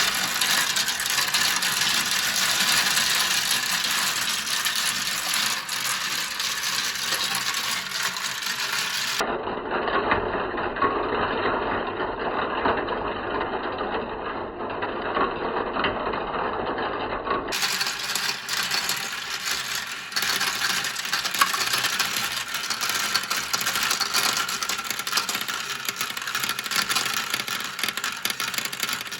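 Many marbles rolling and clattering down a marble-run track, a dense continuous rattle of small clicks. The sound turns duller for several seconds in the middle, then bright again.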